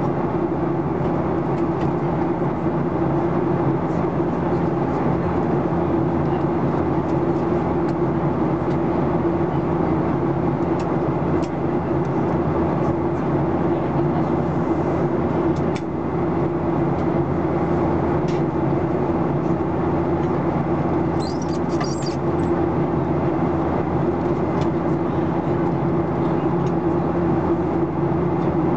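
Steady cabin drone of a Boeing 737-800 in flight, the CFM56-7B engines and airflow heard from inside the cabin as a constant rush with a low steady hum. A brief faint high chirp comes about three quarters of the way through.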